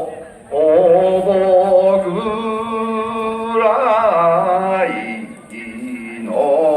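Bon odori song: a male voice singing slow, drawn-out syllables, each note held for a second or more with slow bends in pitch.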